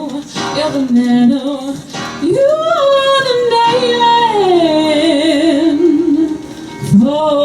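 A woman singing long held notes with a wide vibrato, sliding down in pitch and starting a fresh rising note near the end, with musical accompaniment.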